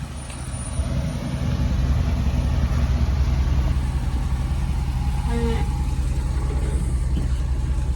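Lifted pickup truck's engine running with a steady low rumble, fading in over the first second and then holding level.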